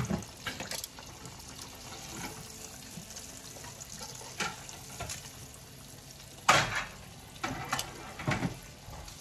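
Breaded pork cutlets frying in a pan of hot oil with a steady sizzle. Metal tongs clink and clatter against the pan several times as the cutlets are turned, the loudest clatter about six and a half seconds in.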